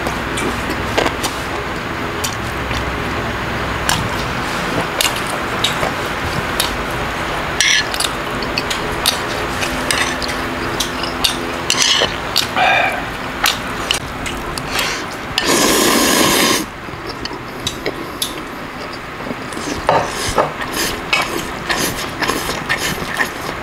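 Close-up eating sounds: chewing kimbap and noodles, with many small sharp wet mouth clicks, and a loud rush of noise about a second long about two-thirds of the way through.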